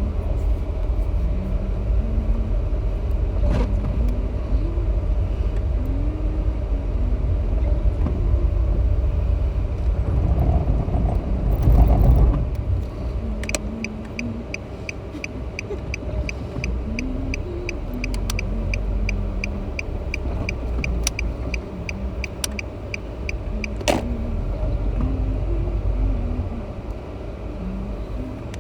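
A car being driven, heard from inside: steady low road and engine rumble that swells briefly a little under halfway. From about halfway on, an even clicking ticks steadily over it, like a turn-signal indicator.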